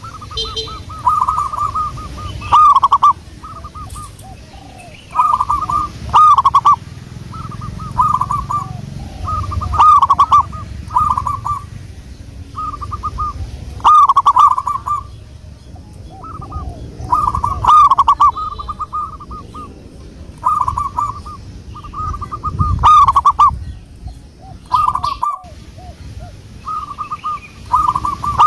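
Zebra doves (perkutut) cooing: loud, rapid rolling coo phrases repeated every second or two, in the species' typical staccato song.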